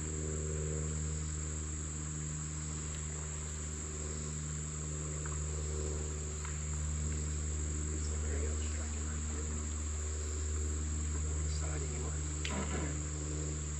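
Steady insect chorus, a continuous high-pitched buzzing trill, over a steady low hum.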